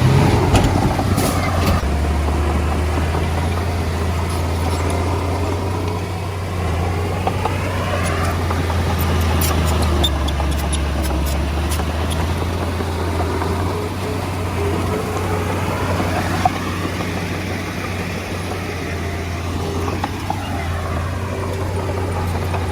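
Komatsu D20A bulldozer's diesel engine running steadily, with a low drone that shifts slowly in tone as the machine works, and a few short clicks and clanks now and then.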